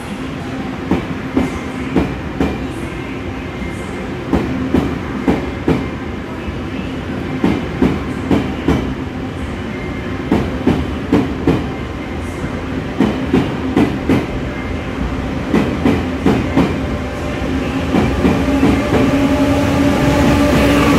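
Passenger train running on rails, its wheels clicking over rail joints in repeated pairs over a steady rumble and hum. Over the last few seconds the running noise grows louder and a whine comes in.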